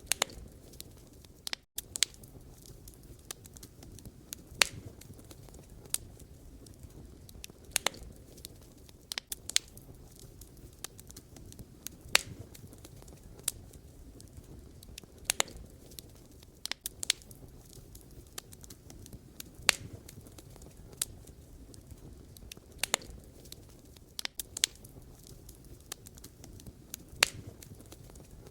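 Campfire of burning firewood crackling: sharp, irregular pops and snaps over a low steady rumble of the flames, with a momentary break in the sound a little under two seconds in.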